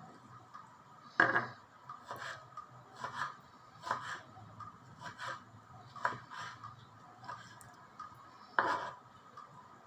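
Repeated rasping, scraping strokes from kitchen food preparation, roughly one a second. The loudest strokes come about a second in and near the end.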